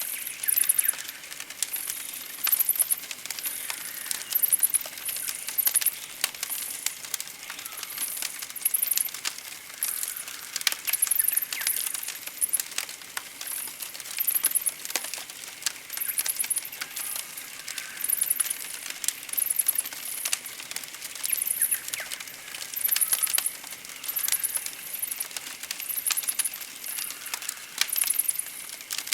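Campfire crackling with frequent sharp pops, under short high-pitched chirps that recur about once a second.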